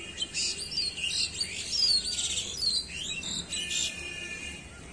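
Birds chirping and twittering in a quick run of short, high notes, fading out about three and a half seconds in.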